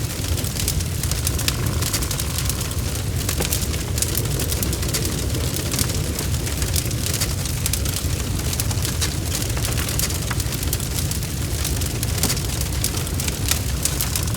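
Fire burning in a fireplace: a steady low rumble with frequent sharp crackles and pops throughout.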